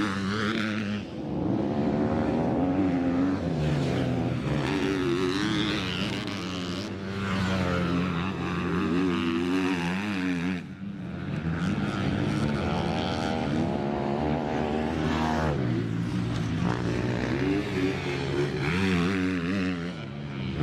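Motocross dirt bike engines revving, their pitch rising and falling over and over as the throttle is worked.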